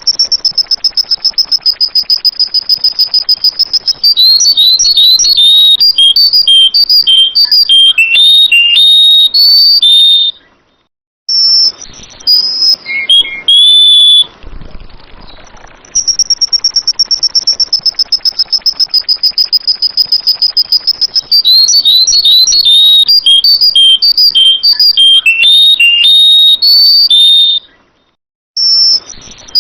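Sooty-headed bulbul song from a looped recording: a rapid high-pitched trill lasting several seconds, then a run of quick whistled notes jumping up and down in pitch, a short pause and a brief phrase. The whole sequence repeats about halfway through.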